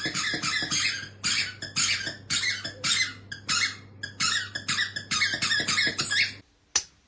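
A squeaky dog toy squeaked over and over in a steady rhythm, about two squeaks a second, as a dog chews it; the squeaking stops abruptly near the end.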